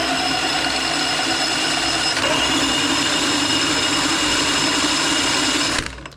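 Power drill running steadily at speed with a high whine, turning the bike's alternator through the gear hub so its AC output can be measured. It stops abruptly near the end.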